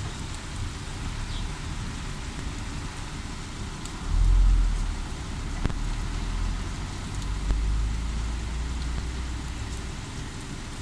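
Heavy rain falling steadily, a continuous hiss. A low rumble swells about four seconds in and again about seven seconds in.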